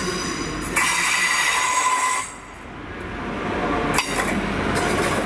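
Transport for Wales passenger train running into the platform with a high-pitched squeal of several ringing tones that starts under a second in and cuts off suddenly after about a second and a half. The train's rolling noise then builds again, with one sharp click about four seconds in.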